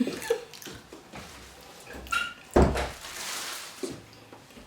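Handling noises at a table: light knocks and clicks, then a heavy thump about two and a half seconds in, followed by a brief breathy rustle.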